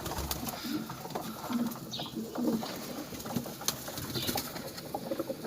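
Pigeons cooing while pecking at bread pieces on a tray, with many quick sharp taps of beaks among the coos.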